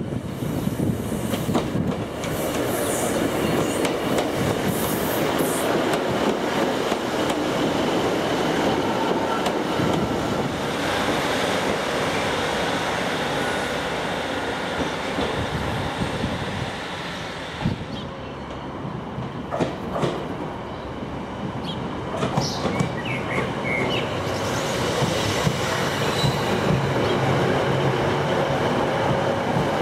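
Diesel multiple unit running through the station: a continuous rumble of wheels on rail with clicking over the joints. The noise eases a little past the middle, then builds again as the train runs close by.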